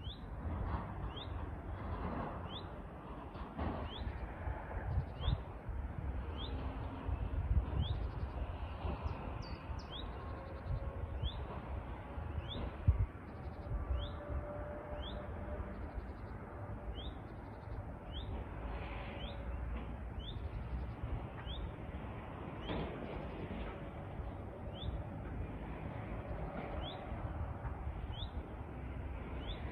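A bird repeating a short, high, upward-slurred note about once a second, over a steady low wind rumble on the microphone.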